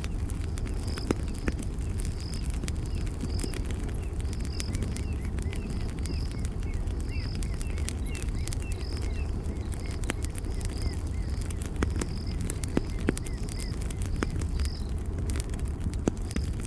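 Campfire crackling, with scattered sharp pops over a steady low rumble of burning wood. Behind it an insect chirps in an even pulse, about two chirps a second, and faint short chirps come and go in the middle.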